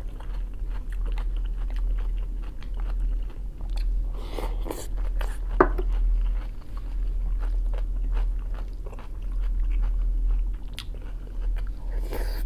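A person chewing mouthfuls of fresh cucumber-and-tomato salad and buckwheat salad close to the microphone, with soft crunches and wet mouth clicks. A sharper click comes about halfway through, over a steady low hum.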